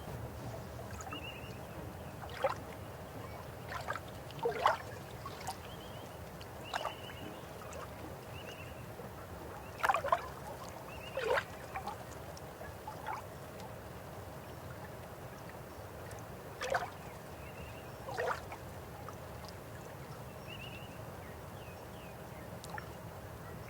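River water flowing steadily, with scattered sharp gurgles and plops, the loudest a few seconds in and again around ten to eleven seconds in.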